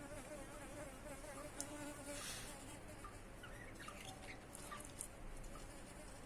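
Budgerigar's soft chatter: a faint, wavering buzz for the first couple of seconds, then a few short rising chirps and light clicks.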